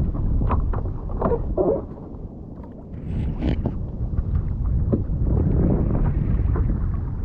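Wind buffeting the microphone on a kayak at sea, a heavy low rumble, with scattered knocks and a brief noisy splash-like burst about three seconds in.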